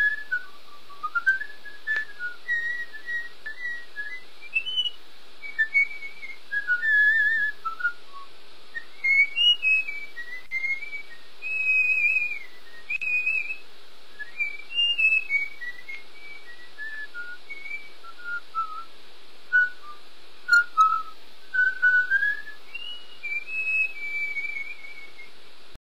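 A person whistling a meandering tune in short notes and slides, over a steady background hiss.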